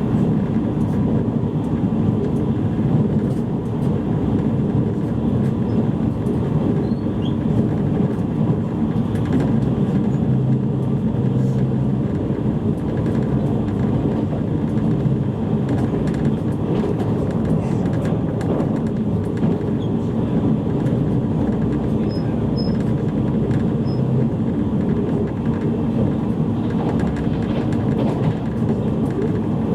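Running noise heard inside a JR East E653-series electric multiple unit travelling at speed: a steady, even sound of wheels on rail and the moving car, unchanging throughout.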